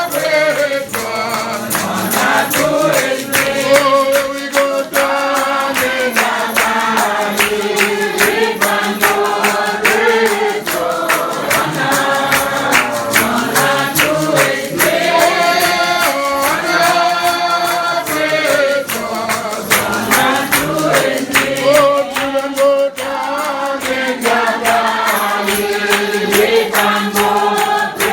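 A church congregation singing a hymn together, with a steady percussion beat under the voices.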